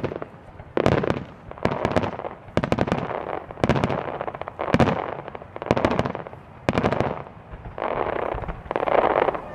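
Starmine fireworks display: aerial shells bursting in rapid succession, the loud bangs coming in clusters about once a second over a continuous rumble.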